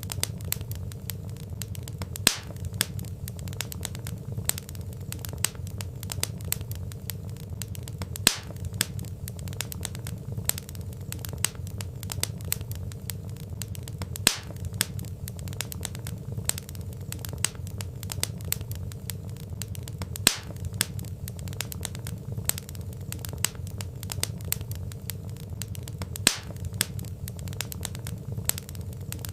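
Wood fire crackling: a dense run of small snaps and pops over a low, steady rumble, with a louder pop about every six seconds.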